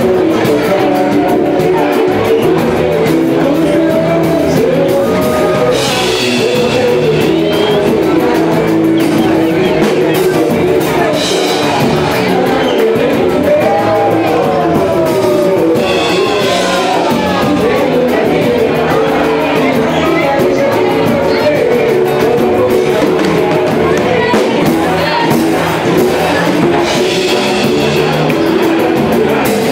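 Live samba music: a band with dense percussion and a lead singer, playing loud and steady.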